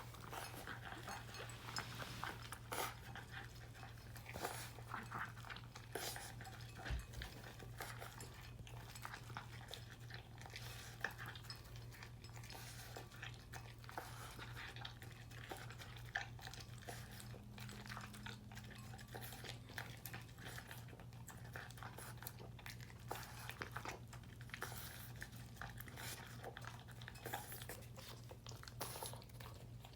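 French bulldog puppy eating from a bowl: a fast run of small clicks, crunches and licks as food knocks against the dish, over a steady low hum.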